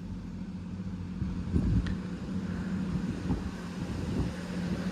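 Class 166 Turbo diesel multiple unit's underfloor diesel engines running under power as the train pulls away: a steady low drone that grows louder.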